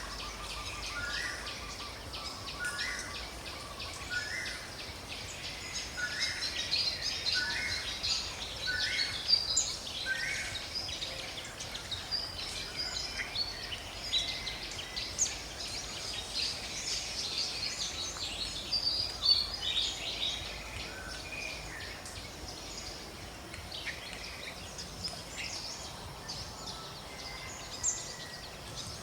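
Outdoor forest ambience with many birds chirping and calling at once. For the first ten seconds or so, one call repeats about once a second, each a short note.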